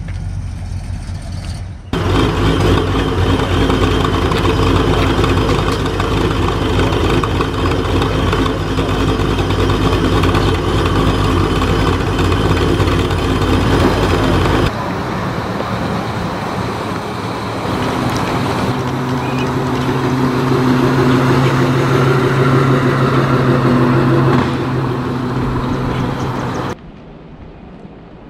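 Car engines idling in separate clips joined by abrupt cuts: a deep steady rumble for the first stretch, then another engine with a steady hum. It drops to a quieter background near the end.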